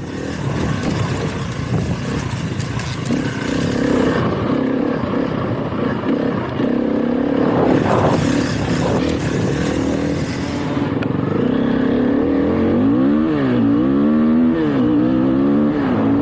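Trail motorbike engine running under way, its revs climbing and falling several times in the second half, over steady wind and riding noise.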